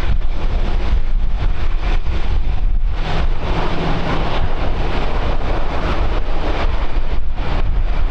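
Wind buffeting the camera microphone: a loud, steady low rumble with gusty hiss, a little brighter around the middle.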